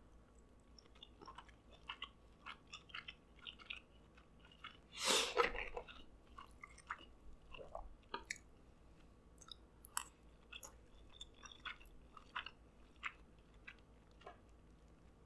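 A person chewing shrimp and crab meat, with many small mouth clicks and one louder, longer noise about five seconds in.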